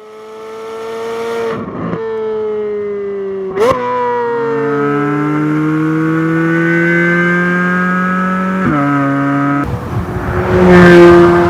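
2023 Corvette Z06's naturally aspirated 5.5-litre LT6 flat-plane-crank V8 running on track. The note fades in, gives a sharp blip about three and a half seconds in, then climbs steadily in pitch under acceleration until it drops at a gearshift about nine seconds in, and grows louder and rougher near the end.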